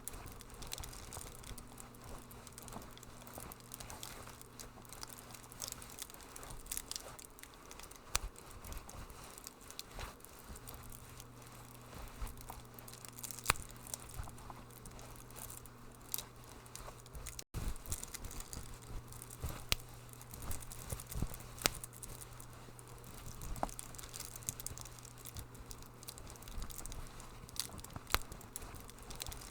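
Wood fire crackling in a fireplace: irregular sharp pops and snaps over a soft hiss, with a low steady hum underneath. The sound cuts out for a split second a little past halfway.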